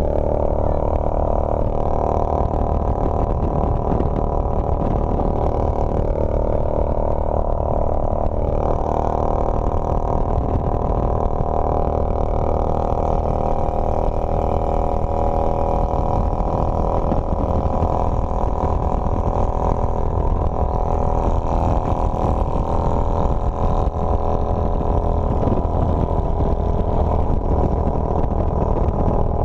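Motorcycle engine running while riding, with wind rumbling on the microphone; the engine note steps up and down a few times as the speed changes.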